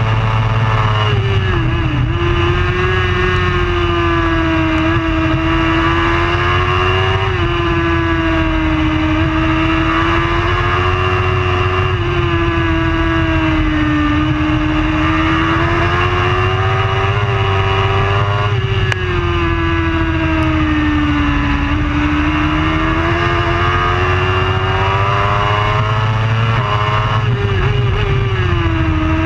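Superbike engine running hard at racing speed, its revs rising and falling continuously with sudden jumps in pitch at gear changes several times.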